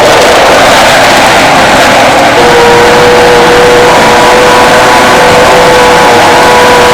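Electric blender running steadily, blending a thick smoothie of soaked tiger nuts, dates, avocado and water: a loud, even whir with a steady motor whine that settles in a couple of seconds in.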